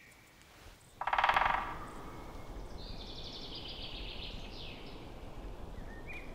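Birds calling in a conifer forest: one loud, buzzy call about a second in, then higher, thinner calls and short chirps over a steady outdoor background noise.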